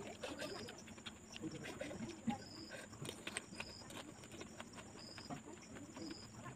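Close-miked eating sounds of a panipuri: the crisp fried puri shell crunching and wet chewing, with irregular mouth clicks. A faint short high chirp repeats about once a second in the background.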